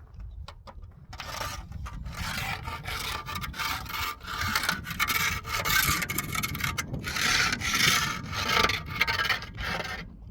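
Rough scraping and rubbing strokes on a hard surface, starting about a second in and going on with short breaks until just before the end.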